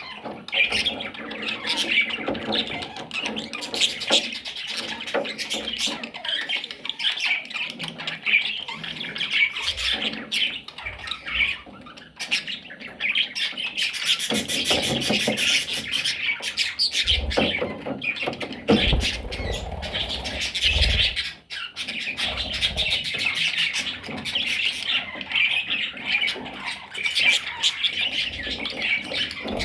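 A flock of budgerigars chattering continuously, many birds calling at once. A few low bumps come through about two-thirds of the way in.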